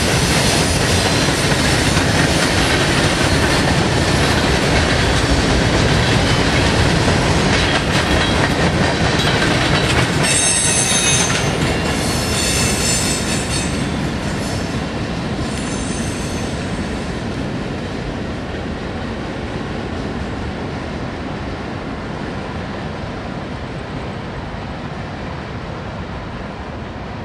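Freight cars of a long manifest train rolling past, wheels and cars rumbling, with high-pitched steel wheel squeal about ten to sixteen seconds in as the train takes the crossover and diverging turnout. The sound then fades steadily as the end of the train moves away.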